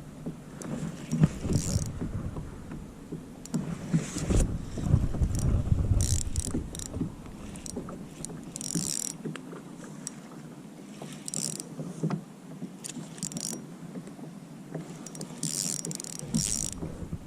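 Wind rumble on the microphone and handling noise on a fishing kayak, with short hissing bursts every couple of seconds; the rumble eases about halfway through.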